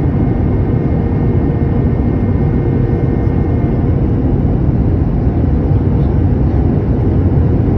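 Steady noise of a jet airliner's engines and rushing air heard inside the cabin in flight, heavy in the low end, with faint steady tones above it that fade out about halfway through.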